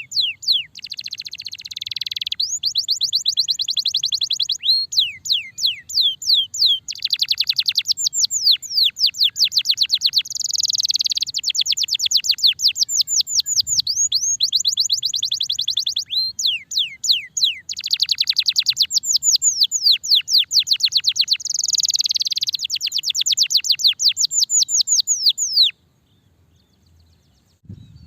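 Domestic canary singing a long, continuous song: fast trills of rapidly repeated downward-sweeping notes alternating with dense buzzy rolls. The song stops abruptly near the end.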